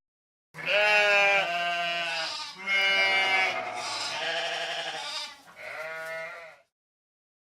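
Sheep bleating: three long bleats in a row, the last one shorter and quieter.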